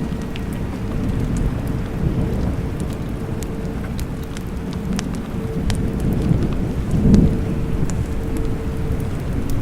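Steady rain with low rolling thunder, the rumble swelling about seven seconds in, with scattered sharp drip ticks over it.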